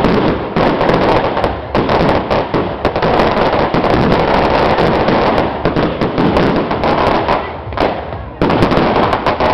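A string of firecrackers going off in a dense, rapid crackle of pops, loud and nearly continuous, easing briefly about two seconds in and again near the end.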